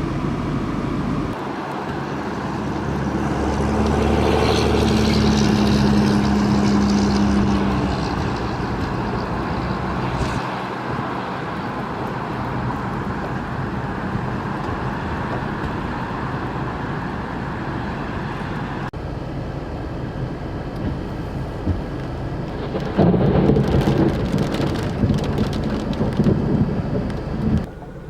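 Severe thunderstorm: heavy rain and strong wind making a dense, steady roar, with louder, irregular gusts for a few seconds near the end.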